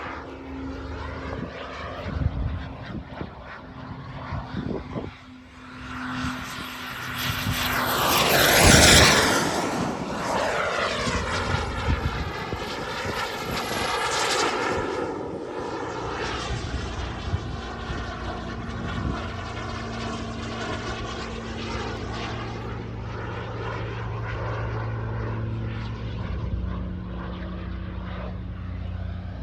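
JetCat P300 Pro turbine of a BVM Desperado RC jet flying overhead, with a high turbine whine over jet noise. It builds to a loud pass about nine seconds in, where the whine falls in pitch as the jet goes by, then swells again briefly and carries on more steadily and further off.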